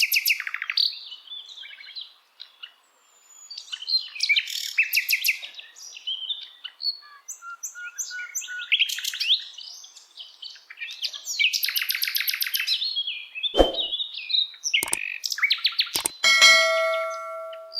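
Songbirds singing: repeated fast trills and chirping phrases, with a few sharp clicks and a short ringing tone near the end.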